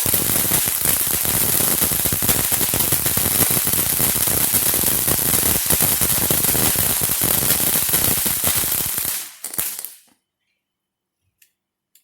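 Ground fountain firework spraying sparks: a loud, steady hiss packed with fast crackles, which cuts off abruptly about nine seconds in.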